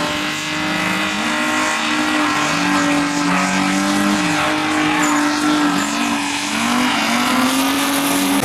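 Drift cars at high revs: one engine's note is held steady while another's rises and falls with the throttle, over the hiss of sliding tyres.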